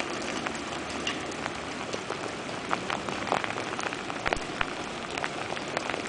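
Steady rain falling, with many scattered drops clicking sharply on nearby surfaces at irregular moments.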